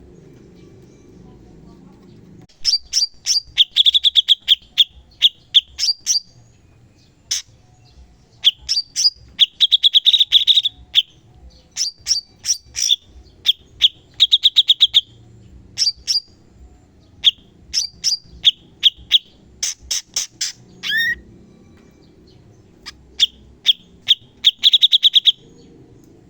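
Cucak cungkok singing in rapid-fire 'tembakan' runs: quick series of sharp, high notes with short pauses between the runs, and one note sliding downward about three-quarters of the way through.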